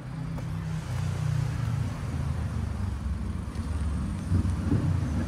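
Low, steady engine hum of an idling car, with some uneven low rumbling in the last second or so.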